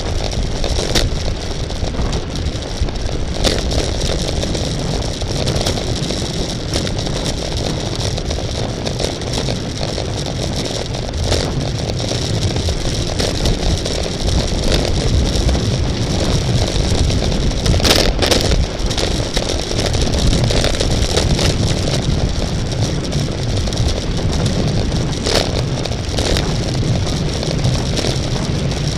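Steady wind and road rumble on the microphone of a moving racing bicycle, with scattered light clicks and one sharper knock about two-thirds of the way through.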